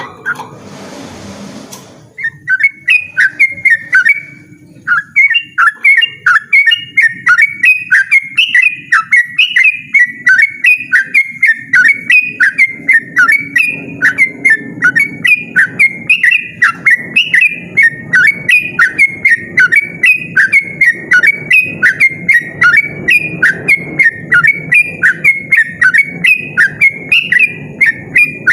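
Yellow-vented bulbul (trucukan) singing a long, rapid run of loud, repeated whistled phrases, about three notes a second, without pause after a brief noisy start.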